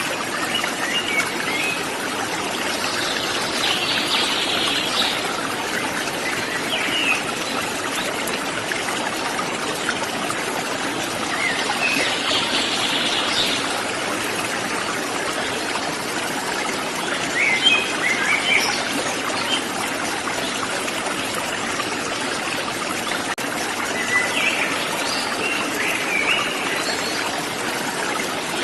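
Steady rush of running water from a forest waterfall, with birds chirping in short calls every few seconds over it.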